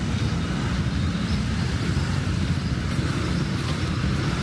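Steady low rumble of road traffic in street ambience.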